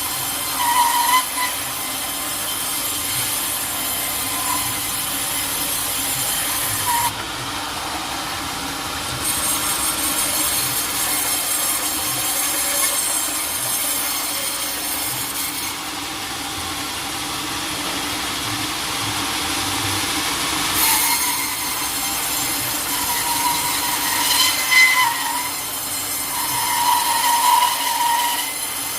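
Sawmill saw cutting through a teak log, a steady loud run of blade noise, with short high squeals near the start and again near the end.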